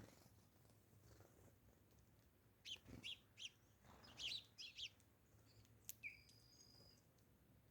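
Small birds chirping, faintly: two clusters of quick high chirps about three and four seconds in, then a short falling note and a thin, steady high whistle near six seconds.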